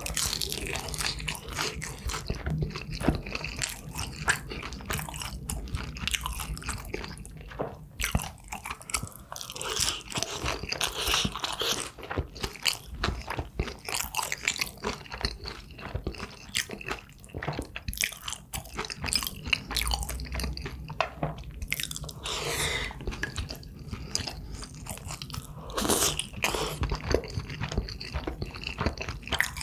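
A person chewing and biting food, a dense, continuous run of small crunches and wet clicks with a few louder mouthfuls along the way.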